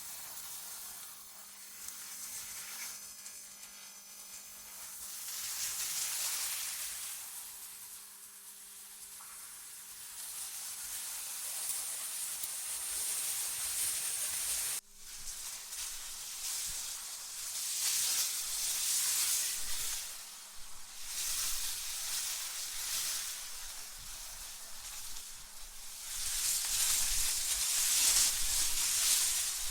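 Synthetic wind ambience: a high hiss that swells and fades in slow gusts, over a faint steady low hum. About halfway through the sound breaks off abruptly for an instant, like a splice, and picks up again.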